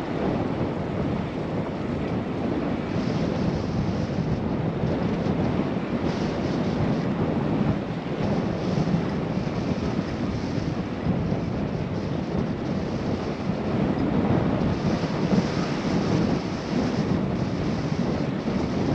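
Wind rushing over a GoPro's microphone while cycling: a steady, rumbling noise with no break.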